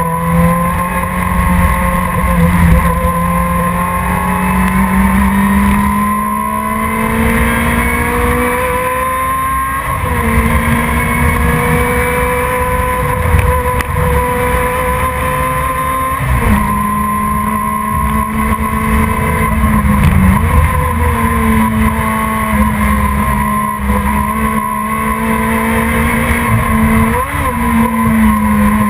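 Production sports race car engine running hard at racing speed, its note held continuously with the pitch creeping up and broken several times by sudden jumps.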